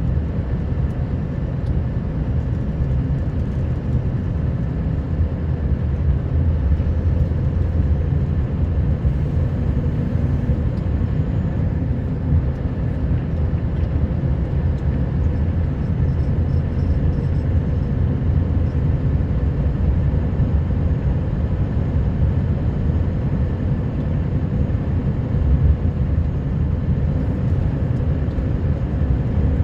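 Scania R560 truck's V8 diesel engine running steadily as the truck drives along, a deep even rumble with no change in pace.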